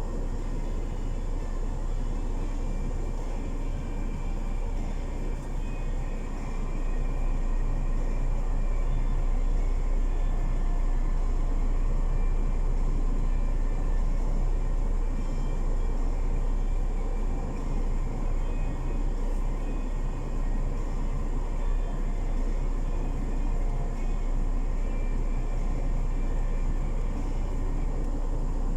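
Semi-truck diesel engine idling: a steady low rumble that grows slightly louder about seven seconds in.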